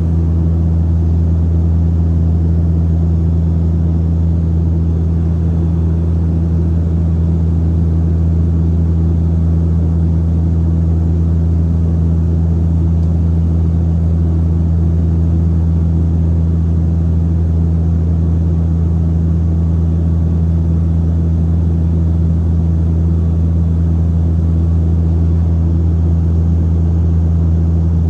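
Saab 340's twin turboprop engines and propellers droning steadily, heard from inside the cabin: a deep, unchanging hum with a second tone above it.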